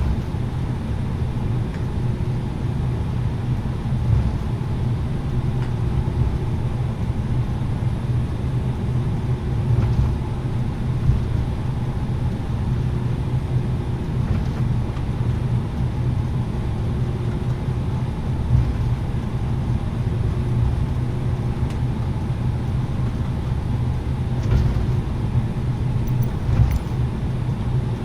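Cabin noise of an Airbus A330-900neo: a steady low rumble from its Rolls-Royce Trent 7000 engines and airflow, with a constant low hum and a few faint knocks.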